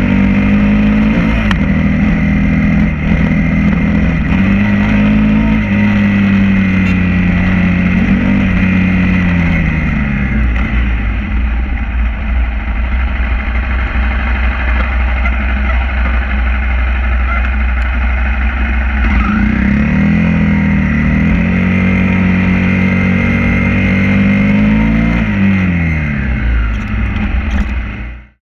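Honda CRF250 dirt bike's single-cylinder four-stroke engine running under way, its pitch rising and falling several times as the revs change, with wind rush on the microphone. The sound cuts off suddenly near the end.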